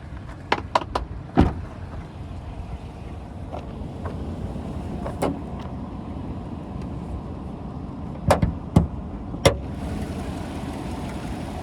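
Sharp clicks and clunks of a pickup's hood latch and hood being worked open, over the steady low running of the 2016 Chevrolet Silverado's 4.3-liter V6 idling. The loudest knocks come in a cluster of three near the end.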